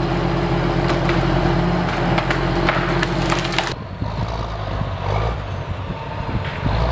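A heavy machine's engine running under load while wood cracks and splinters in sharp snaps. Partway through, the sound changes abruptly to a duller, lower rumble.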